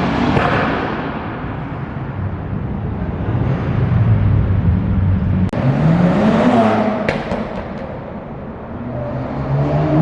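Car engine running and revving, its pitch climbing then falling about six seconds in, with a brief sudden dropout just before.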